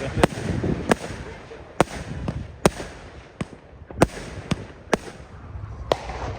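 Fireworks going off on all sides: about ten sharp bangs at irregular intervals, some loud and close, others fainter and farther off.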